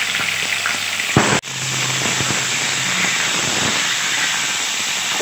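Chicken pieces frying in hot mustard oil in a kadai: a steady sizzling hiss, with a brief break about a second and a half in.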